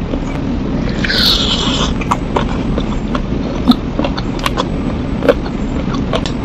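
Close-miked mouth and hand sounds of eating spicy chicken feet: wet, sticky clicks of chewing and of the feet being pulled apart by hand, with a short rasping noise about a second in, over a steady low hum.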